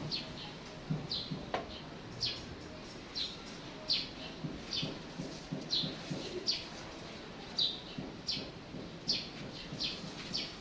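A bird chirping steadily, short high downward-sweeping chirps about two a second, over a low background hum.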